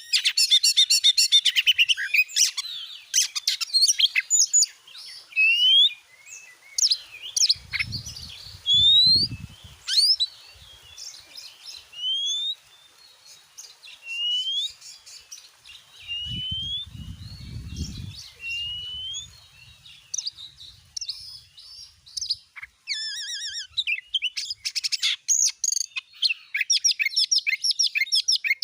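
Oriental magpie-robin (kacer) singing a varied song of rising whistled notes, fast trills and chattering phrases. Two brief low rumbles come under the song around a third and two thirds of the way through.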